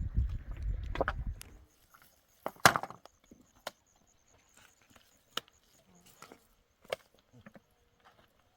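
A low rumble that stops about a second and a half in, then a handful of separate sharp knocks with pauses between them, the loudest about two and a half seconds in.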